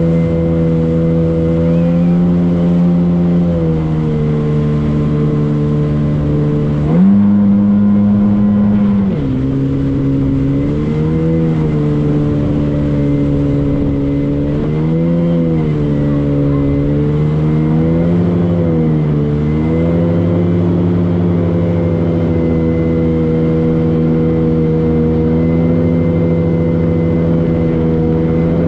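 Motorboat engine running steadily, its pitch rising for a couple of seconds about seven seconds in, then swinging up and down several times before settling back to a steady note.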